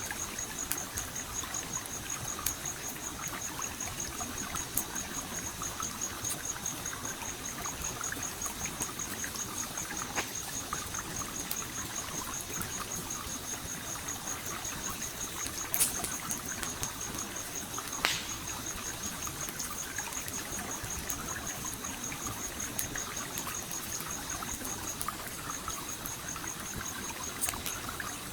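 Stream flowing steadily, with a campfire crackling: scattered sharp pops, two louder ones just past the middle. A rapid high-pitched chirping pulses throughout and pauses briefly near the end.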